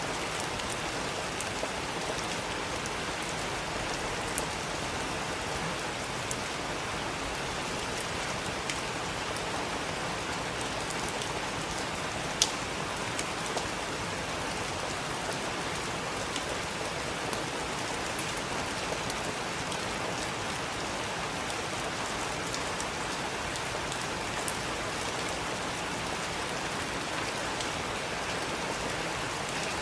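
Heavy rain falling steadily, an even hiss with scattered sharp ticks of individual drops, one louder tick near the middle.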